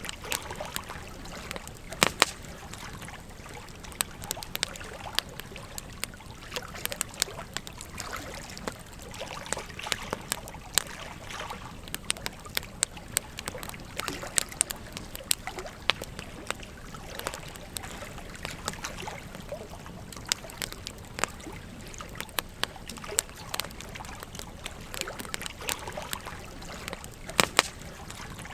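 Campfire crackling with frequent, irregular sharp pops over the steady trickle of a gentle stream.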